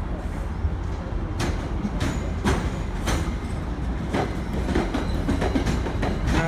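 MBTA Commuter Rail train running on the track: a steady low rumble with repeated sharp wheel clicks over the rail joints.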